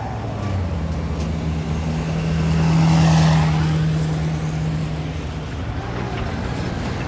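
Freight train passing with a steady diesel-engine drone that swells to a peak about three seconds in and then fades.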